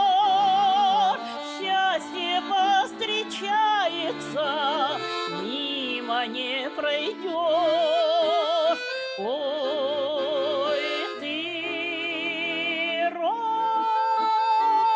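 Russian folk song with a singer holding long notes with wide vibrato over accordion-style accompaniment. About 13 seconds in it settles on a long, steady held final note.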